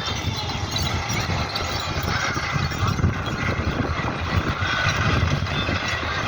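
Tractor engine running steadily with a low, rough, even chug.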